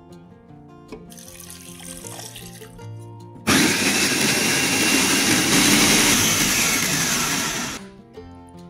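Electric food chopper running, its blade grinding chillies, shallots, garlic and spices into a paste. It starts suddenly about three and a half seconds in, runs steadily for about four seconds, then stops.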